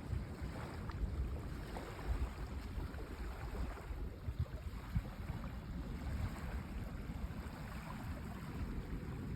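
Sea wind buffeting the microphone in uneven low gusts over the steady wash of waves on the shore.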